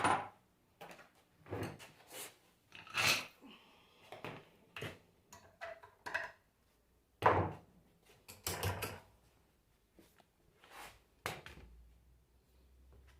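Tools and alternator parts being handled and set down on a workbench: scattered knocks and clacks at irregular intervals, the loudest about seven seconds in.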